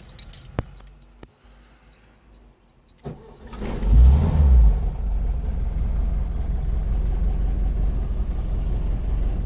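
VW Type 2 Westfalia camper van's engine being started: after a few light clicks it cranks about three seconds in, catches and revs briefly, then settles into a steady idle.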